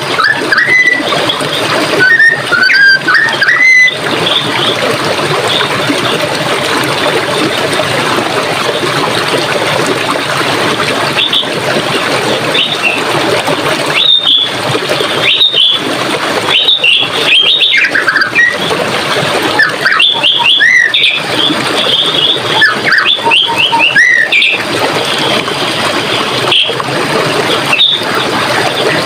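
Steady rushing of a forest stream with songbirds calling over it: a few rising chirps in the first few seconds, then frequent short high calls from about the middle on.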